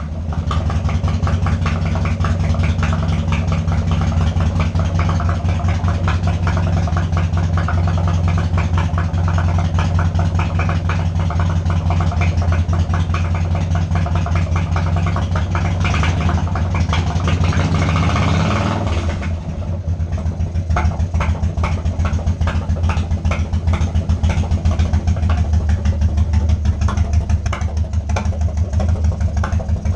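1995 Harley-Davidson Wide Glide's air-cooled Evolution V-twin running, brought back to life after sitting nine years. It idles steadily, the revs rise briefly a little past halfway and then drop, and it settles into a slower idle with a distinct pulsing beat.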